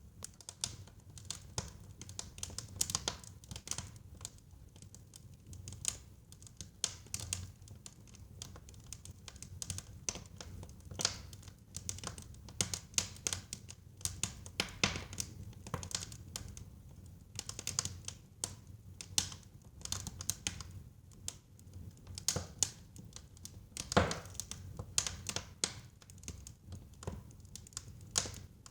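Wood fire burning in a fireplace: irregular crackles and sharp pops of burning logs over a low steady rumble of the flames, with one louder pop about 24 seconds in.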